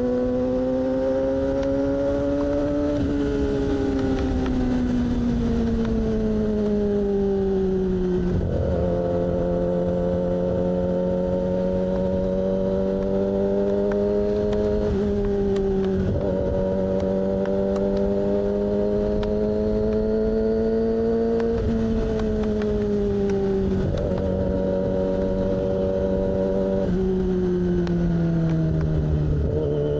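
2006 Yamaha R6's inline-four engine, with an aftermarket AR exhaust, running under way at steady mid revs. The revs climb slowly, ease off and pick up again, with a few sudden jumps in pitch, around a quarter, half and most of the way through.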